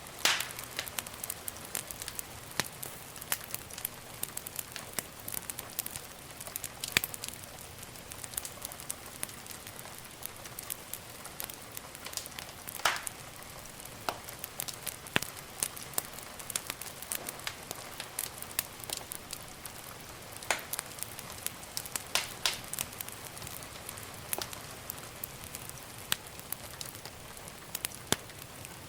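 Wood fire burning in a fireplace: a steady soft hiss with irregular sharp crackles and pops, a few louder snaps among many small ticks.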